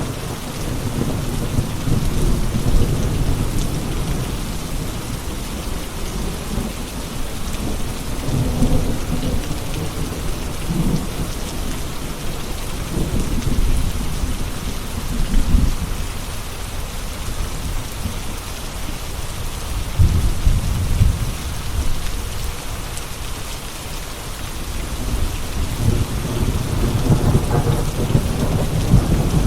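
Steady rain falling, with low rolls of thunder rumbling in and out several times.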